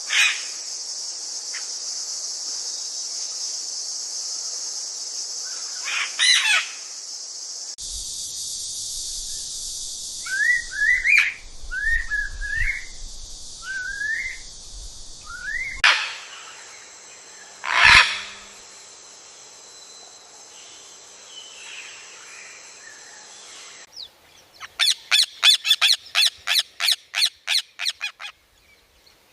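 Parrots calling, cut together from several clips: a few short calls, then a string of short rising whistled chirps, a single loud squawk, and near the end a fast series of harsh squawks at about four a second.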